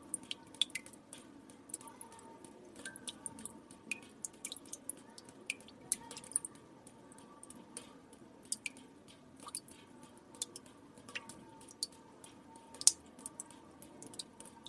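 Water drops dripping into still water, irregular sharp plinks a few per second, some louder than others, over a faint steady hum.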